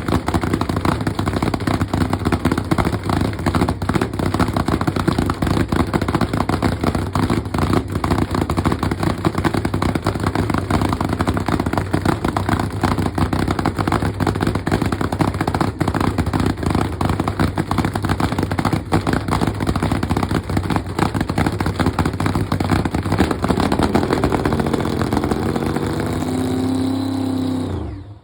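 Hemi engine running loud and rough, with a choppy, crackling exhaust note. Over the last few seconds its pitch climbs steadily, then the sound cuts off suddenly.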